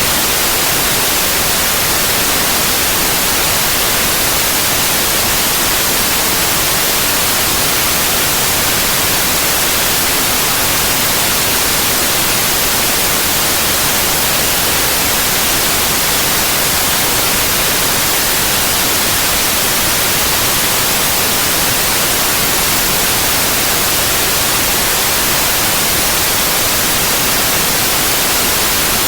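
Steady, unbroken white noise: an even hiss, brightest in the high frequencies, with no changes.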